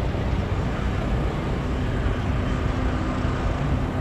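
Steady low rumbling background noise, with a faint steady hum joining about two seconds in.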